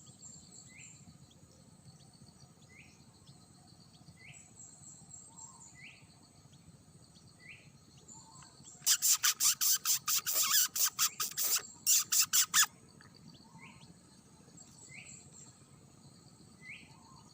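Forest ambience: a bird repeats a short rising chirp about once a second over a steady high insect hum. From about nine seconds in, roughly four seconds of loud, rapid rasping pulses cut across it, then stop.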